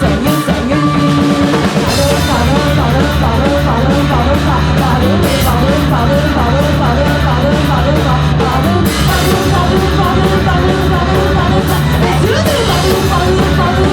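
Punk rock band playing loud and fast with a singing voice.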